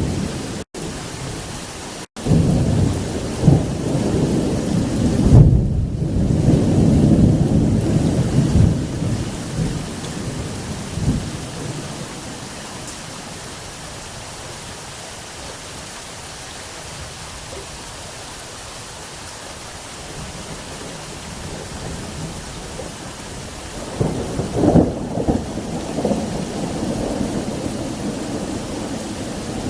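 Thunderstorm with heavy rain falling steadily and rolling thunder. A long rumble of thunder fills the first ten seconds or so, and a second rumble breaks out near the end.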